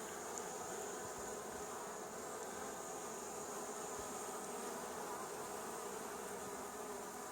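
A newly hived swarm of honey bees buzzing steadily at the hive.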